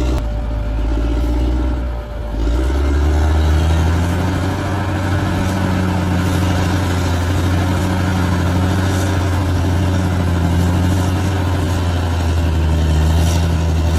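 Large bulldozer's diesel engine running with a deep, steady note that dips briefly about two seconds in and then holds.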